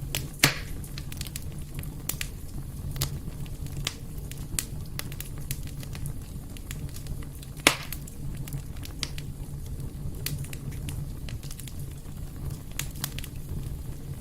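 Wood fire burning in a fireplace: a steady low rumble of flames with frequent crackles and two louder pops, about half a second in and near the middle.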